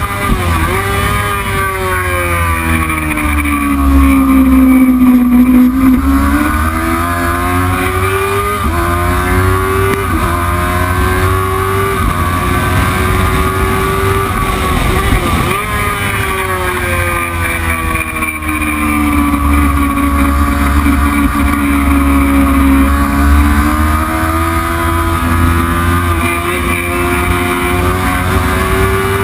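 Racing motorcycle engine at speed, its note falling and rising with the pace. Several quick gear changes cut in sharply, with a long slow drop in pitch, slowing for a corner, a few seconds in.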